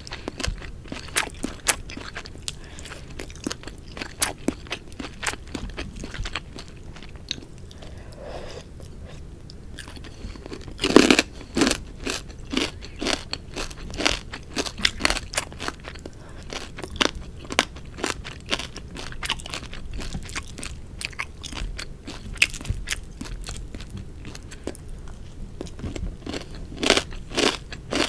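A person chewing a mouthful of sukiyaki right at the microphone, with many crisp crunches at an irregular pace. The crunches are loudest about eleven seconds in and again near the end.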